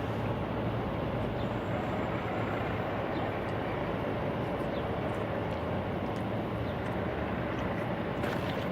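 Steady low engine-like rumble with a constant hum, typical of a vehicle running, with a few faint clicks near the end.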